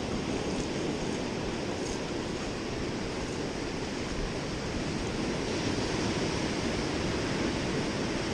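Atlantic surf washing steadily onto a sandy beach, with wind on the microphone, swelling slightly about five seconds in.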